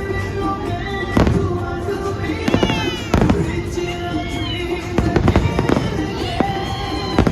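Fireworks bursting in the air, several sharp bangs a second or two apart, heard over loud music playing along with the show.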